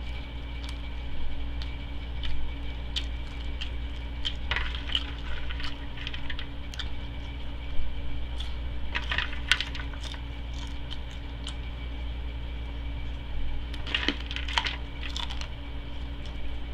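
Chewing and crunching popcorn, in three bursts of crisp crunches a few seconds apart, over a steady low hum.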